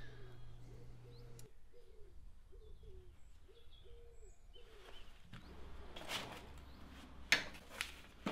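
Faint bird cooing, a short call repeated about twice a second, with a few thin chirps, in the first half. From about five seconds in, rustling and a few sharp knocks of a cardboard box and paper being handled; these knocks are the loudest sounds.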